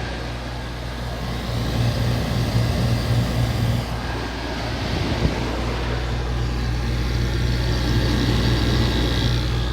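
Vintage Crosley air conditioner running: a steady low hum under the rush of its fan, swelling louder for a few seconds twice.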